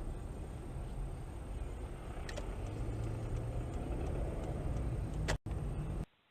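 Car driving, with a steady low rumble of engine and road noise and a run of faint light ticks in the middle. The sound drops out briefly and then cuts off abruptly about six seconds in.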